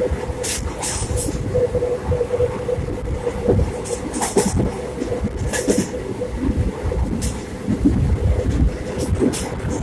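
Passenger train running on the line: a steady low rumble with a faint constant hum, and short hissing rattles every second or few.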